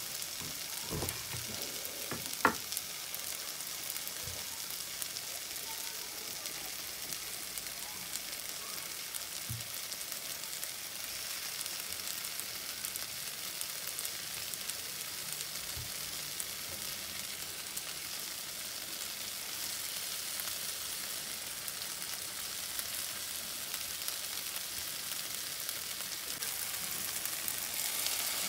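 Onions and tomatoes sizzling in a frying pan, a steady hiss, with a few knife knocks on a wooden cutting board in the first few seconds. Near the end the sizzle grows louder as water is poured into the hot pan.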